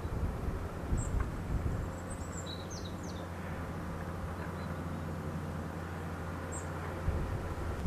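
Wind rumbling steadily on the microphone, gusting about a second in and again at the end, with a few brief, high bird chirps over it.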